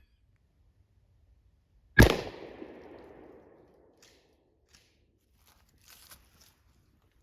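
A single 12-gauge pump shotgun shot, a Mossberg 590 firing birdshot, about two seconds in, its report echoing away over a second and a half. A few faint clicks follow, with a short clatter near the end.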